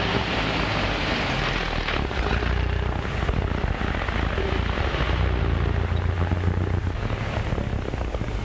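Vintage car engine running with a steady low rumble, amid street traffic noise.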